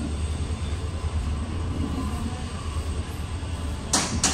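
Passenger coaches of the 11014 Coimbatore–Mumbai LTT Express rolling past along the platform: a steady low rumble, with two sharp clacks near the end.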